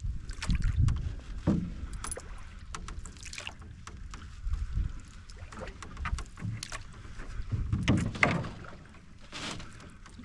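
Canoe paddling: paddle strokes in the water with scattered knocks and creaks from the canoe, several louder strokes among them, over a low rumble.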